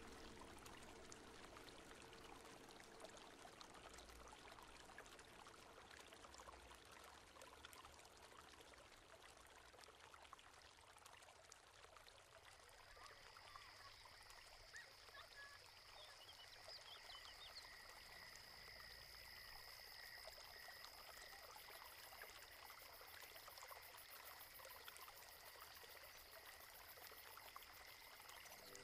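Near silence: a faint, even trickling, water-like hiss. About halfway in, a faint steady high-pitched tone joins it, with a weaker wavering tone below.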